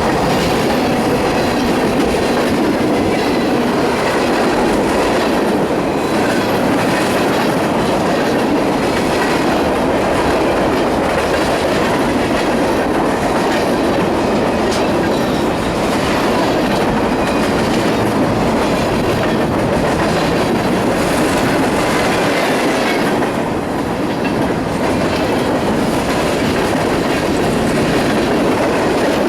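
BNSF train's cars rolling past at steady speed: a continuous rumble with the wheels clacking rhythmically over rail joints.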